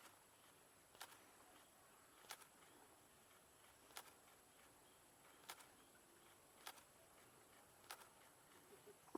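Faint camera shutter clicks, six single clicks spaced about a second or a second and a half apart, over near silence with a faint steady high whine.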